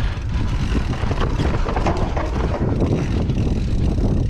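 Mountain bike riding down a rocky trail, recorded on a GoPro: wind buffeting the microphone over tyres grinding on rock and dirt and the bike clattering over the bumps.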